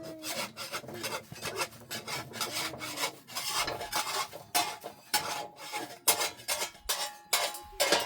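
Rhythmic rasping scrapes, about three strokes a second, like something being scraped or rubbed hard by hand.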